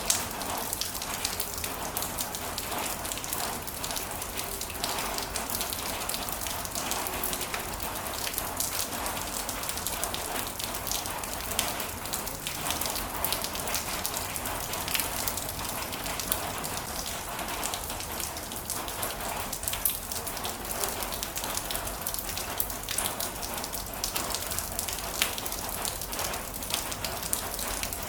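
Heavy rain falling steadily, with frequent sharp hits of single drops on top of the even hiss.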